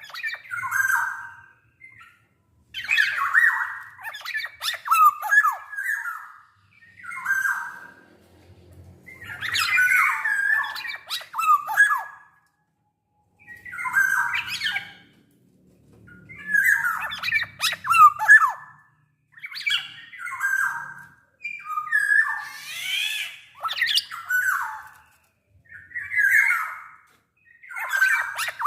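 Black-naped oriole (kepodang) singing: repeated short phrases of fluty whistled notes mixed with harsh, scratchy calls, each phrase about one to two seconds long with brief pauses between.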